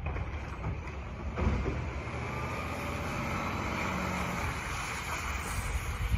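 McNeilus side loader garbage truck running, a steady low engine rumble with a knock about a second and a half in.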